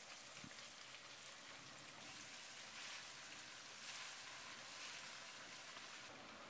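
Faint sizzling of goat meat and onions frying in ghee and oil in a cast iron pot, swelling a little now and then as they are stirred with a wooden spatula.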